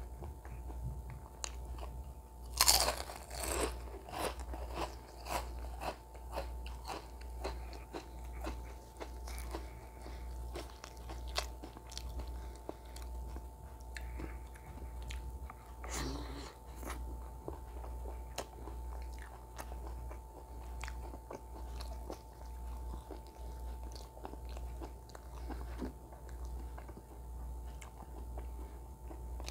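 Close-miked crunching of crisp fried snack chips: a loud bite about three seconds in, a string of crunchy chewing after it, and another crisp bite about halfway through, over a steady low electrical hum.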